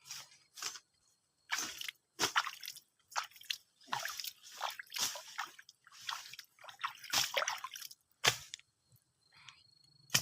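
Standing rainwater splashing and squelching in short, irregular strokes, about two a second.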